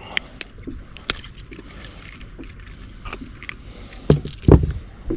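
Light metallic jingling and clicking of fishing tackle being handled, with two heavy thumps about four seconds in.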